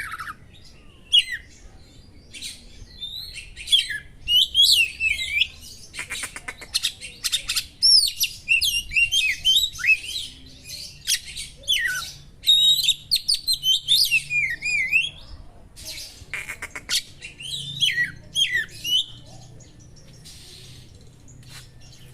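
Oriental magpie-robin (kacer) singing a loud, varied song of slurred whistles, trills and rapid buzzy rattles, built from sharp phrases of small birds' calls. The song thins to a few faint notes near the end.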